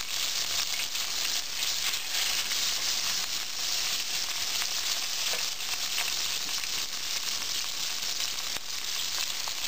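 A piece of chorizo frying in hot oil in an enamelled steel pan: a steady sizzle throughout.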